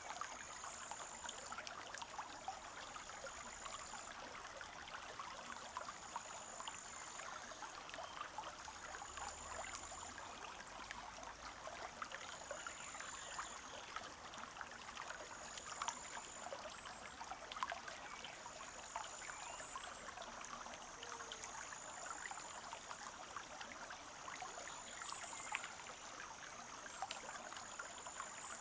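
Small forest stream trickling and babbling steadily over stones, with a high, thin call repeating about every two seconds behind it.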